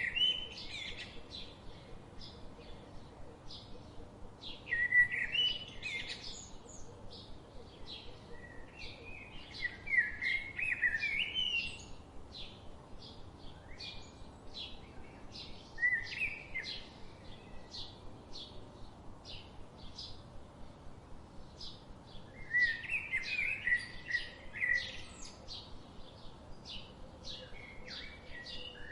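Songbirds chirping: one bird repeats a short high chirp about twice a second, while louder warbling song phrases break in every few seconds.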